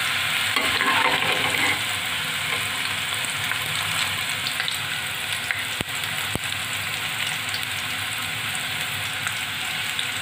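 Bitter gourd (karela) rings deep-frying in hot oil in a steel kadhai, with a steady sizzle. Two light clicks come about six seconds in.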